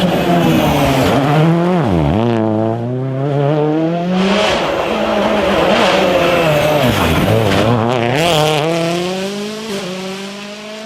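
Rally car engine under hard use: the revs drop sharply about two seconds in and again around seven seconds, then climb steadily each time, with the sound fading toward the end as the car draws away.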